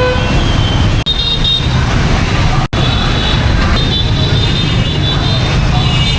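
Heavy rain mixed with busy road traffic, with engines rumbling and high horn tones sounding on and off.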